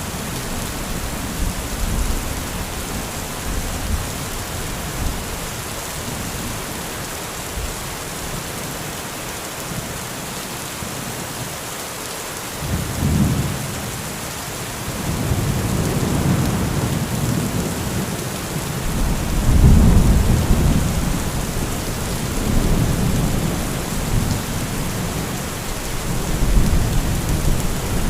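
Steady heavy rain with rolling thunder. The rumble dies down, then rolls in again about halfway through and is loudest about two-thirds of the way in.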